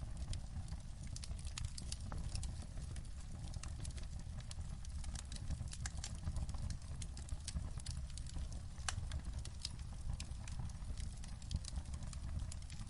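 Wood fire crackling in a fireplace: irregular sharp pops and snaps over a steady low rumble, with a louder pop about nine seconds in.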